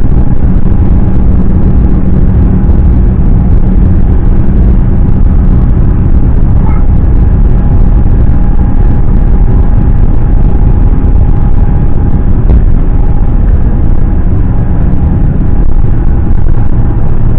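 Airbus A350 cabin noise: a loud, steady low rumble of the jet engines and airflow, with a faint steady hum riding on it.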